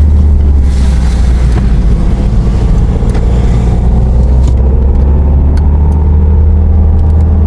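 Car driving on a hill road: a steady, loud low rumble of engine and road noise.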